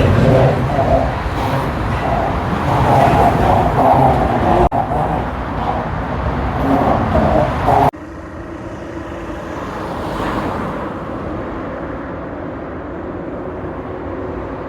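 Steady road-traffic noise from vehicles crossing the suspension bridge. It is abruptly quieter and duller after a sudden cut about eight seconds in.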